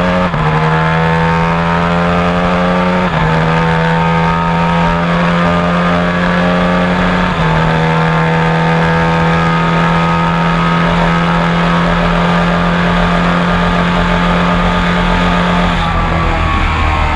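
High-performance motorcycle engine under hard acceleration at high revs. Its pitch climbs, then drops sharply at each upshift, twice clearly (about 3 and 7 seconds in), and then runs on at high speed.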